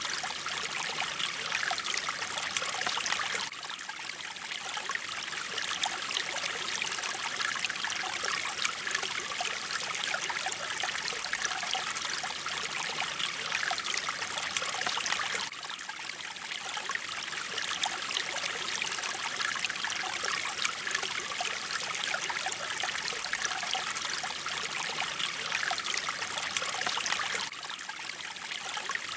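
Mountain stream of water flowing and splashing over rocks, a steady rushing that dips slightly about every twelve seconds.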